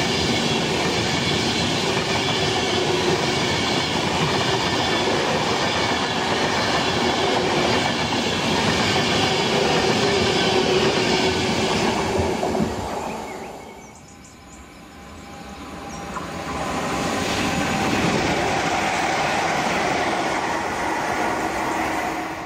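Class 390 Pendolino electric express passing through at speed, a loud steady rush of wheels and air that fades away about 13 seconds in. A few seconds later loud train noise builds up again and holds until the end.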